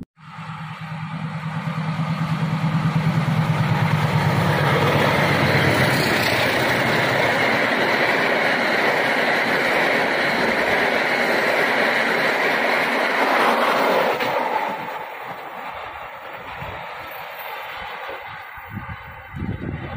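Freight train of covered goods wagons passing close by. A steady low hum in the first few seconds gives way to the loud, even rush of the wagons rolling past, which fades away after about fourteen seconds.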